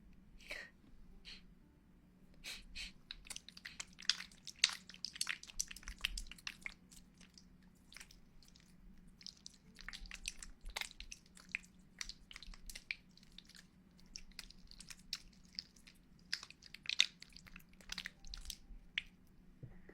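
Close-miked ASMR trigger sounds: quiet, irregular clicks and crackles, several a second in uneven clusters, over a faint steady hum.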